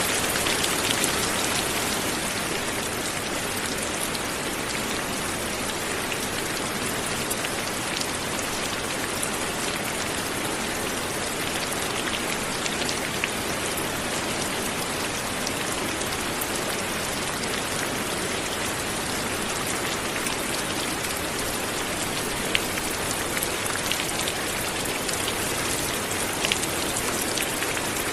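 Steady light rain falling on a surface, an even hiss with scattered individual drops ticking, a few sharper drops near the end.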